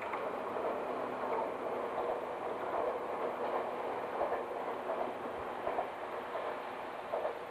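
A JNR 115 series electric multiple unit running on the rails, its wheels clacking over rail joints in uneven beats. The sound eases slightly near the end as the train draws away.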